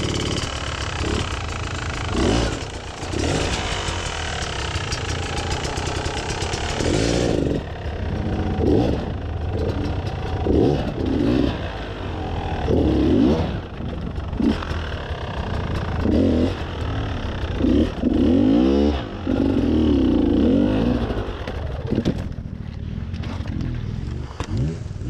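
Enduro dirt bike engine running and revved in repeated short bursts as the bike is worked through a rocky creek bed. A steady hiss under the engine stops abruptly about seven seconds in.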